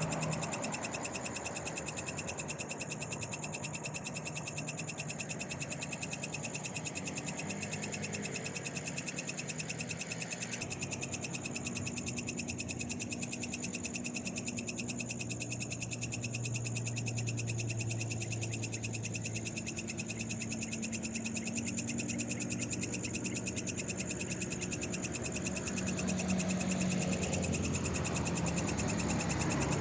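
Night-time chorus of frogs, a steady high-pitched trilling with a fast even pulse, over a low hum that swells in the middle and again near the end.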